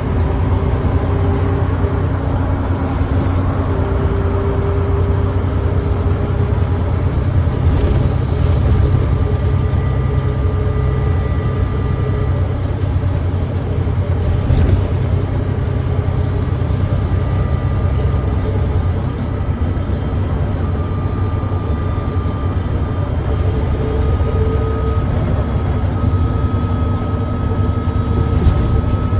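Volvo D9B diesel engine of a Volvo B9TL double-decker bus running steadily under way, with the exhaust leak the bus is known for. It is a constant low drone, with a faint whine that climbs slowly in pitch over the last third.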